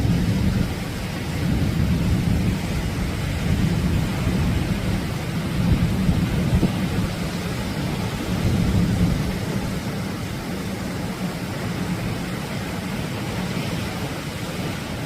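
Atlantic ocean surf breaking and washing up the shore: a continuous rushing noise over a heavy low rumble, swelling and easing every few seconds.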